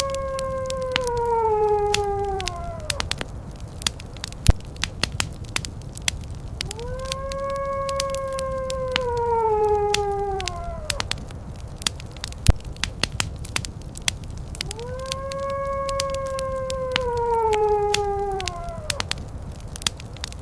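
Wood fire crackling in a fireplace, with dense sharp pops over a low rumble. Three times, about eight seconds apart, a long howl-like call rises in: each is held level for a few seconds and then slides down in pitch.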